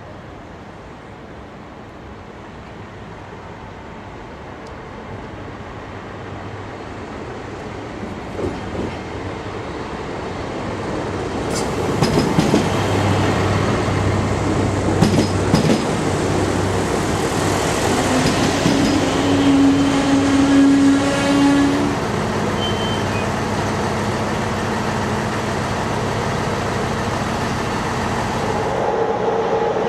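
Passenger train pulling into the station, its rumble growing louder over about twelve seconds as it approaches. Wheels knock over rail joints as it passes, with a brief steady tone partway through.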